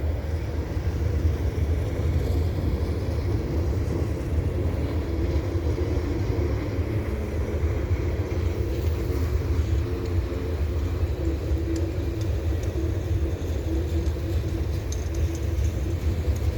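CN mixed freight train passing, a steady low rumble.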